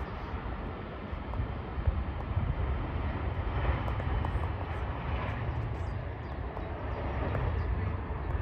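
Jet airliner engine noise: a steady rumble that grows slightly louder in the second half.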